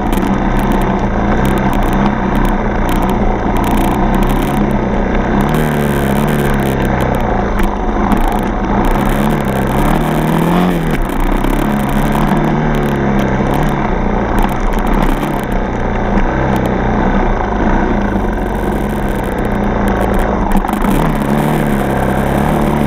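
Single-cylinder four-stroke dirt bike engine running on a trail ride, its pitch rising and falling again and again as the throttle opens and closes.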